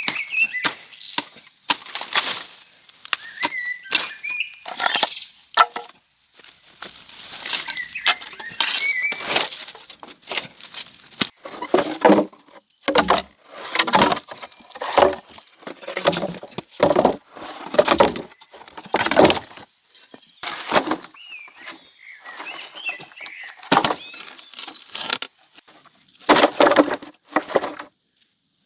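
A long run of irregular knocks and cracks, with short high chirps or squeaks in between.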